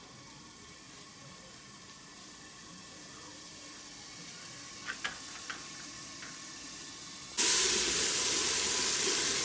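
Faint hiss of a pot heating over a clay wood-fired stove, with a few light clicks about five seconds in; then, about seven seconds in, a sudden loud sizzle as food goes into the hot oil in the aluminium pot, sizzling on as it is stirred with a ladle.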